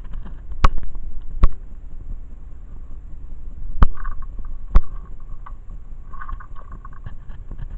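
Four sharp knocks or snaps, about a second or more apart, over a steady low rumble like wind on the microphone.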